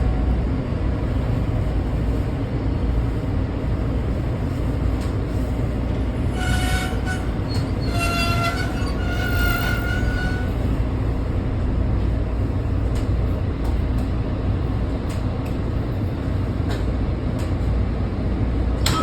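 Washington Metro train running with a steady low rumble. Several high-pitched metallic squeals come from about six to ten seconds in.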